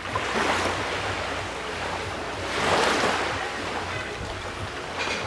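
Ocean waves washing in, one surging louder about halfway through, over a low steady hum.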